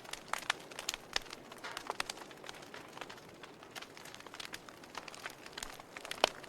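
Campfire burning with irregular crackles and sharp pops of burning wood over a faint steady hiss, the loudest pop near the end.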